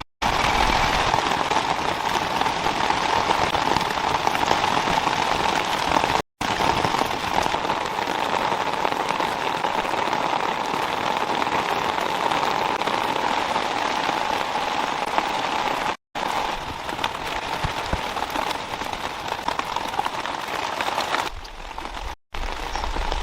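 Steady heavy rain falling in rainforest, a dense even hiss broken by brief dropouts to silence a few times.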